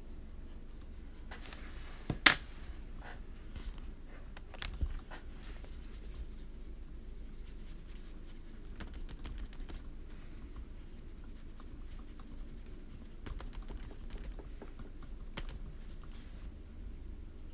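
Light clicks and taps of coloring tools on a desk, with two sharper knocks about two and four and a half seconds in, and faint scattered ticks over a low steady hum.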